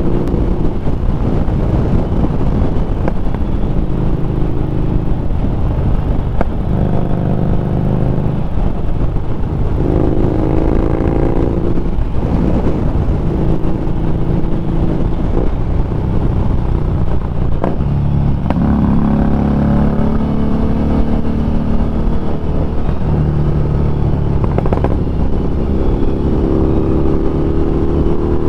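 Harley-Davidson Street Rod 750's liquid-cooled 750 cc V-twin running under way, its note rising and falling several times with the throttle, over steady wind rush.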